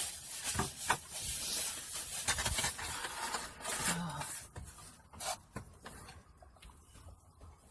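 Rustling and rubbing of food packaging being handled, with a few sharp clicks and knocks. The handling is loudest in the first half and dies down after about five seconds.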